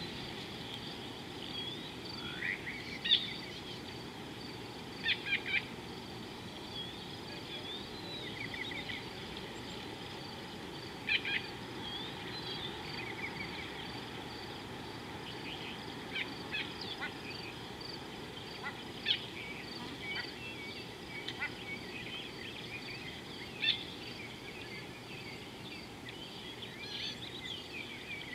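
Wild birds calling outdoors: short, sharp chirps scattered through, a few of them much louder than the rest, over a steady high-pitched chorus and a low hiss of outdoor background noise.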